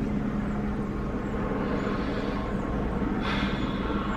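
Steady running noise of a vehicle: a low rumble with a constant hum, and a short hiss about three seconds in.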